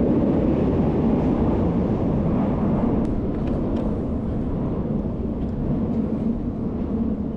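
Steady low rumble of rail-station noise, easing off slightly toward the end, with a few faint clicks in the middle.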